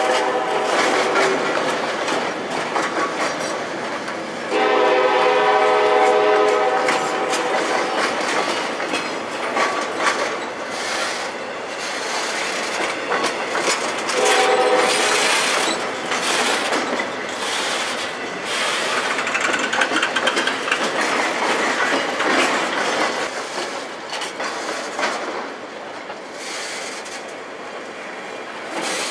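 Norfolk Southern freight train of loaded flatcars rolling past, with wheels clacking over the rail. The locomotive's air horn sounds three times: a blast ending about a second in, a longer one around five seconds in, and a short one about halfway through.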